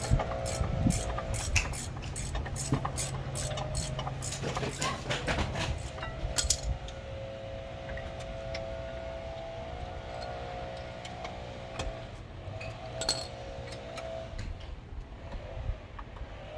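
Metal tools and parts clinking and rattling as they are handled, with many quick clinks in the first six seconds and only a few after, over a steady low hum that stops about six seconds in.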